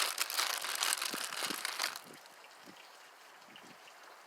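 Packing material crinkling as a die-cast toy car is unwrapped by hand, for about two seconds before it goes quiet.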